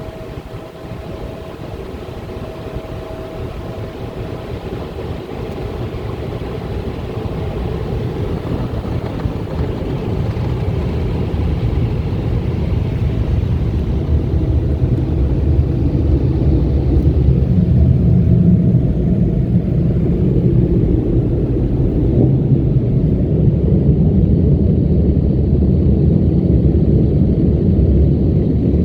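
Blowers of a D&S 5000 automatic car wash dryer running, a steady deep rushing noise that grows steadily louder over the first twenty seconds or so and then holds, which the driver finds kind of weak.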